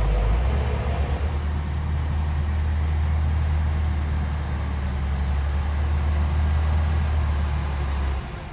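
Heavy diesel engine of earthmoving machinery running under steady load, a deep continuous drone that drops away sharply near the end.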